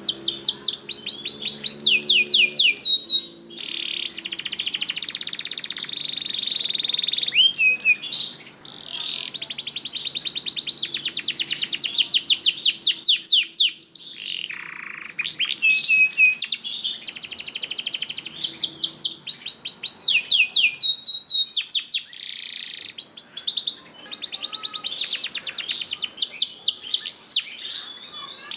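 Domestic canary singing a long, fast song: rapid trills and runs of quickly repeated notes, in phrases broken by short pauses.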